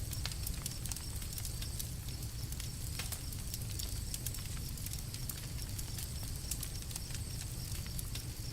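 Campfire burning with frequent small crackles and pops scattered irregularly over a steady low rumble.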